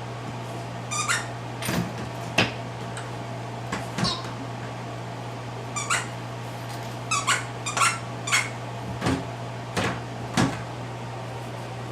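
Wobble Wag Giggle dog ball giving short squeaky giggles as it is batted and rolled, about a dozen times at irregular spacing, with a few knocks as it hits the floor.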